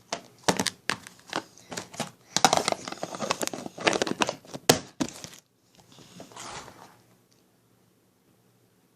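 Crinkling and rustling of packaging being handled, in dense irregular bursts for about five seconds before it dies away.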